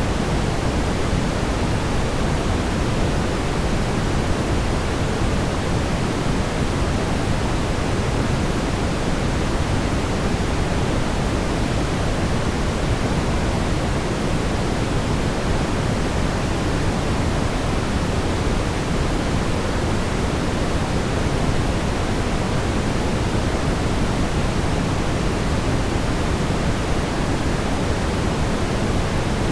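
Steady brown noise: an even, unbroken rumbling hiss weighted toward the low end, with no changes.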